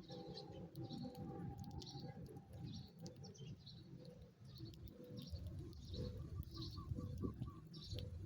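Sparrows chirping: short, high chirps repeating roughly twice a second, over a steady low rumble.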